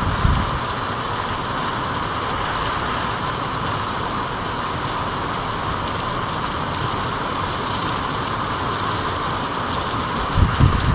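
Steady rain falling, an even hiss. Brief low thumps come right at the start and again near the end.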